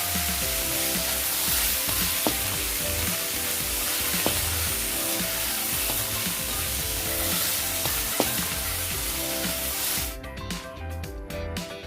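Food sizzling and frying in a hot pan, with a few sharp taps of a utensil, over background music. The sizzle stops near the end and the music carries on alone.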